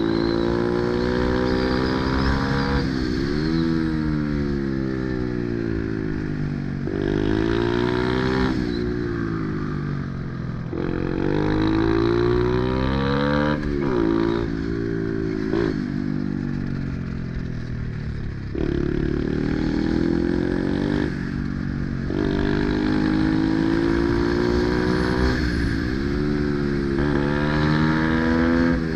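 Pit bike's single-cylinder engine being ridden hard, its pitch climbing and falling over and over with sudden drops every few seconds as the bike accelerates, shifts and backs off for corners.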